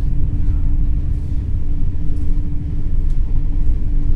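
NS ICNG (Alstom Coradia Stream) intercity train running, heard inside the passenger cabin: a steady low rumble from the running gear with a constant hum above it.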